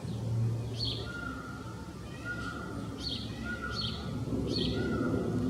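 A small bird singing: short high chirps repeated about every half second, with a lower held note between them, over a steady low background hum.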